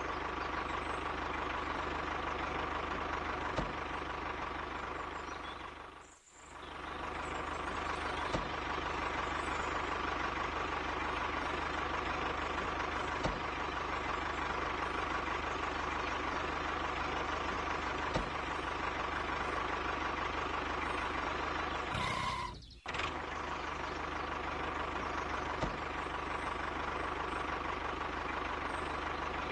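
Steady running of a tractor engine, with a constant whine over the drone. The sound drops out briefly twice, about six seconds in and again near twenty-three seconds.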